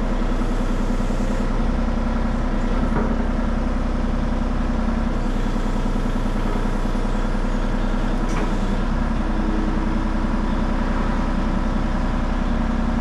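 Excavator engine running steadily while the bucket is curled back. The low engine note shifts a few times as the hydraulics take load.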